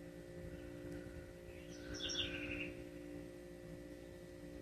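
A steady faint hum, with a bird giving a few short, quick chirps about two seconds in.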